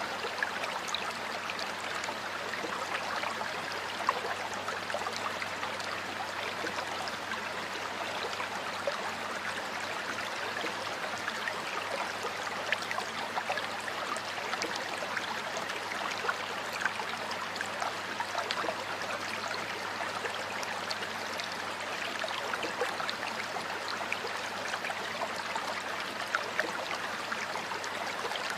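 Running water in a stream, flowing and splashing steadily with many small bubbling splashes.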